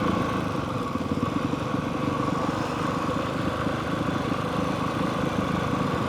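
Honda CRF450R dirt bike's single-cylinder four-stroke engine running steadily at low speed while riding.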